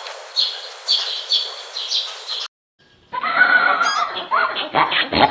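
A bird calling over and over, about two short calls a second, which cuts off abruptly. After a brief gap a horse whinnies, a loud, wavering neigh.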